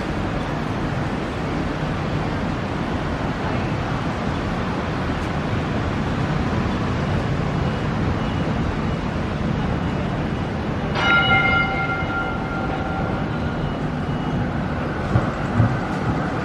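Steady rumble of city traffic. About eleven seconds in, a single bell-like ring sounds and fades over a couple of seconds.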